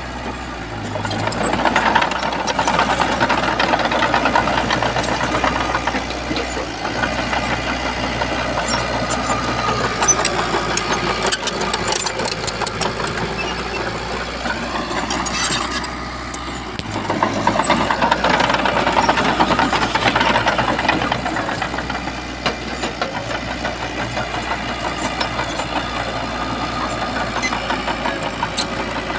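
Diesel engine of a Shantui bulldozer running continuously, swelling louder twice as it works under load: once about two seconds in and again a little past halfway.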